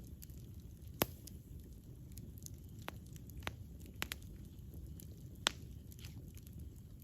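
Campfire crackling: a few sharp, scattered pops and snaps over a low, steady rumble of burning wood, the loudest pop about a second in.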